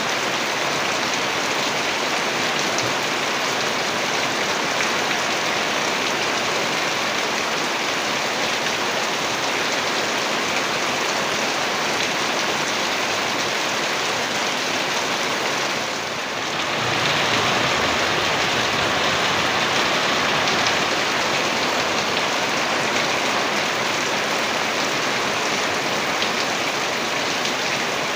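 Heavy rain falling in a steady, dense hiss, with a brief dip about halfway through before it comes back slightly louder.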